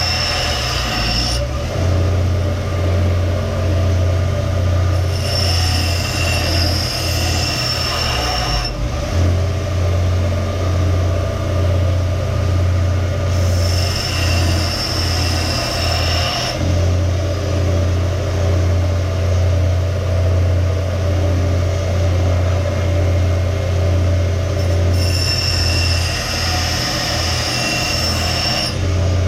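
Electric grinding tool running with a steady hum while an axe bevel is ground on it. A high squealing tone comes in four stretches of a few seconds each, as the steel is pressed to the tool.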